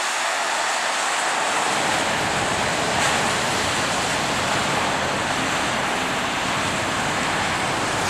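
Wind blowing in a snowstorm: a steady rushing noise, with a low rumble on the microphone joining about a second and a half in.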